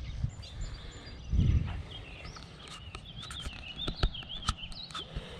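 Small birds singing, a run of quick wavering high notes that goes on through the second half. A brief low thump comes about a second and a half in, and a few sharp clicks near the end.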